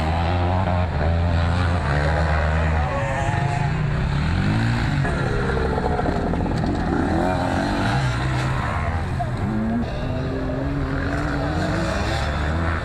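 Several motocross motorcycle engines running hard at once, their pitches repeatedly rising and dropping as the riders open and close the throttle.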